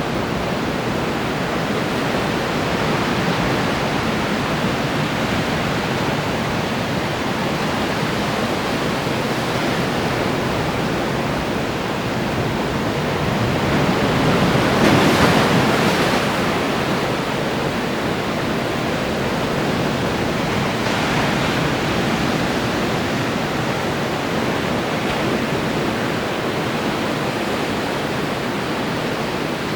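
Ocean surf: waves breaking on the shore in a steady wash, with one wave crashing louder about halfway through.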